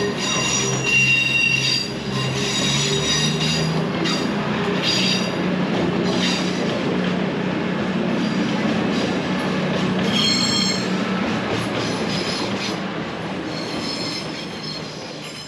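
Train rolling along the rails with a steady low rumble, its wheels squealing in high-pitched bursts that come and go. It fades out near the end.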